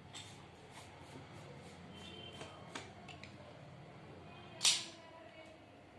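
Faint clicks and taps of drawing materials being handled on paper, with one brief, louder rustle about four and a half seconds in.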